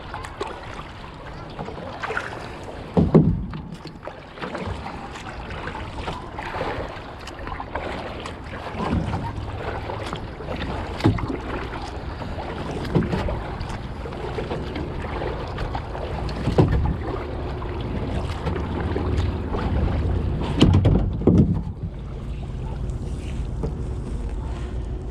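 Kayak being paddled: paddle strokes in the water about every two to three seconds, over wind noise on the microphone.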